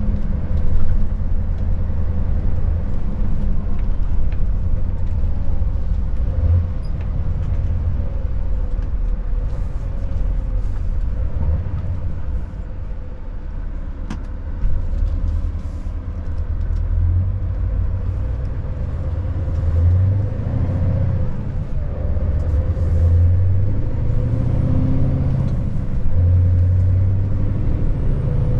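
Scania S580 truck's V8 diesel engine driving along, a steady low drone that swells and eases every few seconds, with a faint steady whine above it.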